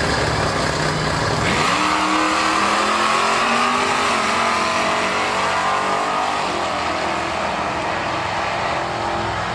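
Sportsman drag car's engine idling, then revving hard about a second and a half in as the car launches. The pitch sinks slowly as it runs away down the strip.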